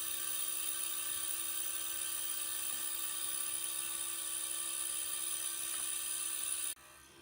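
Steady high-pitched whine of a power tool's motor running at constant speed, cutting off suddenly near the end.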